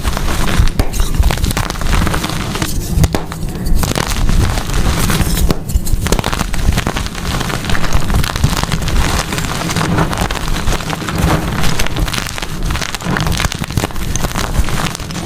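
Blocks of gym chalk being crushed and crumbled: a dense, steady crackling and crunching, with brief lulls about three and six seconds in.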